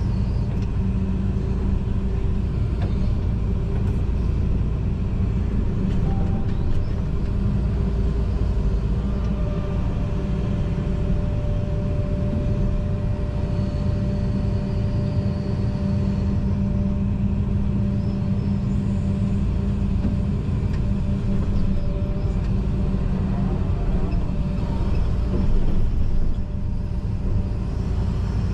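John Deere 245G excavator's diesel engine and hydraulics running steadily while it works, heard from inside the cab as a deep, even rumble. A faint steady whine rises over it through the middle.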